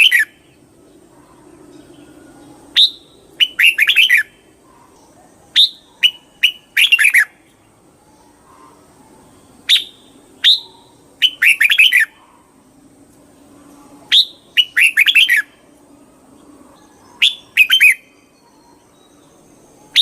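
Red-whiskered bulbul singing: short phrases, each a bright high note followed by a quick run of sharp falling notes, repeated every two to four seconds.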